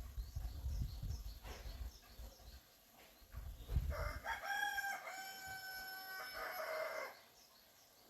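A rooster crowing once, a single long call of about three seconds starting about four seconds in. Before it come low thuds and rumble.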